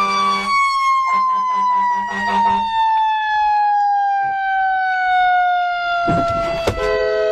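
Emergency vehicle siren with its pitch falling slowly and steadily over several seconds, winding down. A pulsing low tone accompanies it for the first few seconds, and a sharp knock comes near the end.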